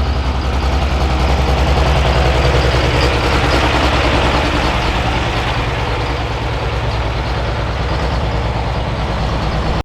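Diesel pickup truck engine running steadily at low revs, off the throttle after an aborted pull.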